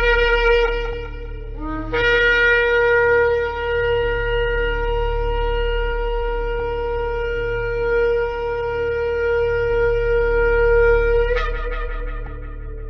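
Shofar blasts: one blast ends about a second and a half in, a short low note follows, then a long steady blast is held for about nine seconds and ends with a brief upward break. A steady low hum runs underneath.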